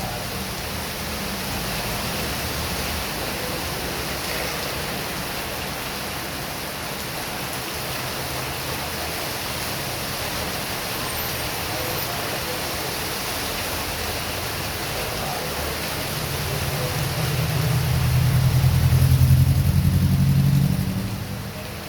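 Heavy rain hissing steadily by a road. Near the end a vehicle passes on the wet road: a low rumble swells over a few seconds, becomes the loudest sound, then fades.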